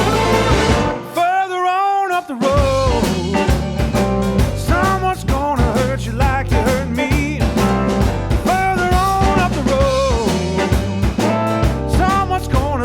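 Blues band playing with drums, bass and keyboards under a lead electric guitar line of bent, wavering notes. About a second in the band stops briefly while a single held, wavering note sounds alone, then the band comes back in.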